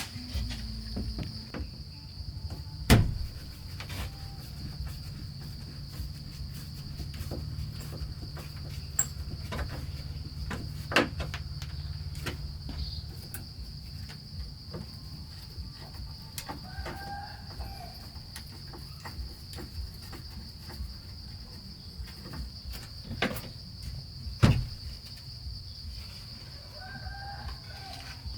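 Steady high-pitched drone of crickets or other insects, with a few sharp knocks scattered through it, the loudest about three seconds in.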